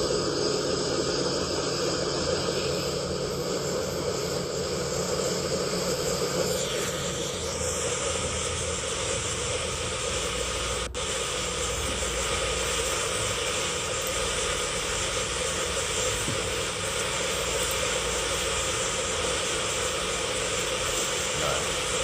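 An engine running steadily under a loud hiss, the hiss changing in character about six and a half seconds in.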